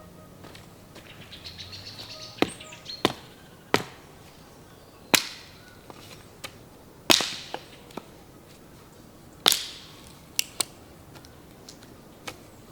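A series of sharp, irregular clicks and knocks, about ten in all, the loudest near 2.5, 5, 7 and 9.5 seconds in, some with a short ringing tail. A quick run of faint ticks comes just before the first of them.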